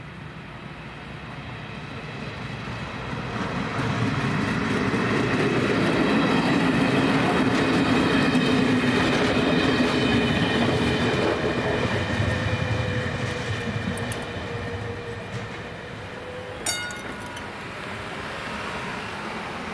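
A diesel passenger train passes over the level crossing, growing louder, running by with clicking wheels, then fading away. Near the end there is one sharp clack with a brief ring, followed by a car driving across the crossing.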